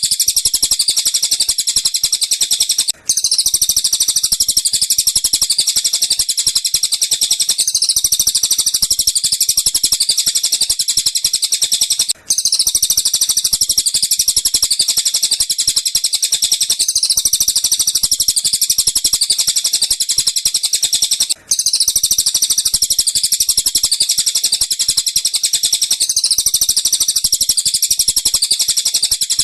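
Looped bird-call master recording of tengkek buto and cililin calls: fast, dense, high-pitched chirping that runs on without pause, except for a short dropout three times, about every nine seconds, where the loop restarts.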